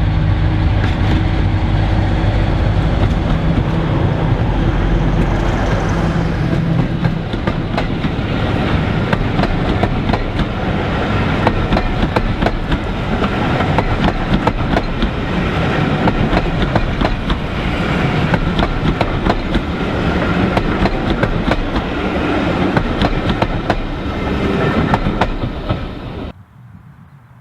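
Heritage diesel locomotive passing close by. Its engine drones loudly for the first several seconds, then the train's wheels clatter over the rail joints as the coaches roll past. The sound cuts off suddenly near the end.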